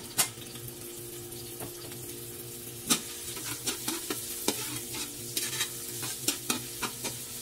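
Chopped ginger sizzling in hot oil in a wok while a metal spatula stirs it, the spatula clacking and scraping against the pan again and again over a steady frying hiss.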